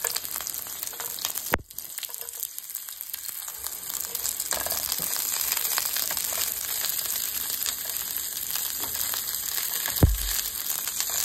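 Onion, garlic cloves and ginger sizzling in a little hot oil in a nonstick pan as a spatula stirs them: a steady frying hiss. A sharp click comes about a second and a half in, and a knock near the end.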